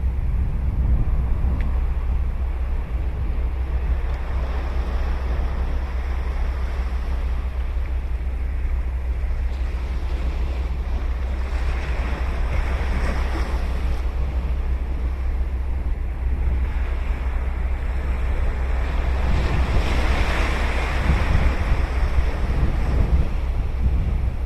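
Ocean waves breaking and washing up a beach, with surges about halfway through and again near the end. Under them is a steady low rumble of wind on the microphone.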